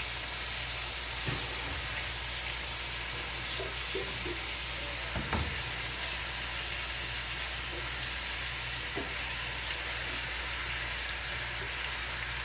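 Pork ribs frying in oil in a pan: a steady sizzle, with a couple of light knocks about a second in and about five seconds in.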